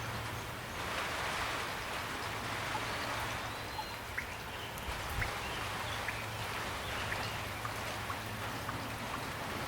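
Steady rain falling, an even hiss dotted with many sharp drops ticking close by.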